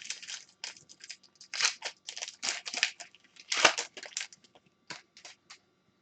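Trading card packs and cards being handled: irregular crinkling, rustling and sliding of foil wrappers, cards and plastic sleeves, in a quick run of short scratchy bursts.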